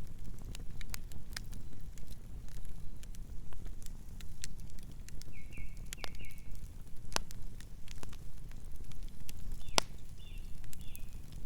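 Campfire crackling: sharp pops and snaps of burning wood, irregular and of varying strength, over a low steady rumble of the flames. A few short high chirps sound about halfway through and again near the end.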